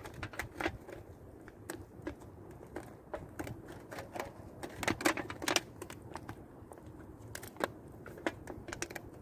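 Campfire crackling and popping: irregular sharp clicks of burning wood, a few louder pops about five seconds in and again near the end.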